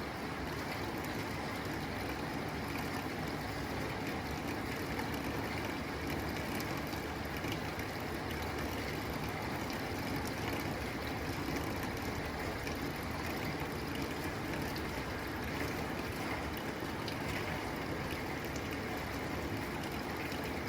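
Steady rain falling on a tin roof: an even hiss of rainfall with scattered light drop taps, unchanging throughout.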